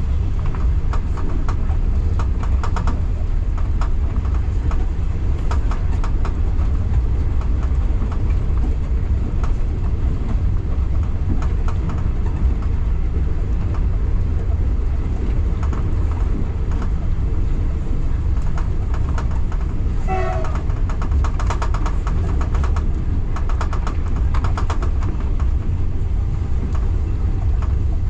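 Local passenger train running on the line: a steady heavy rumble, with repeated runs of rapid clicking as the wheels pass over rail joints.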